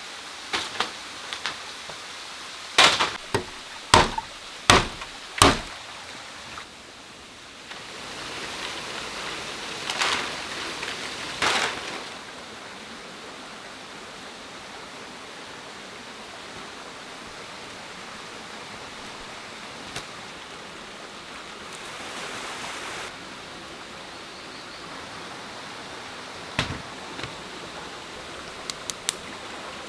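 Steady rushing like a flowing stream, with a run of four loud, sharp knocks a few seconds in and a few more scattered knocks later.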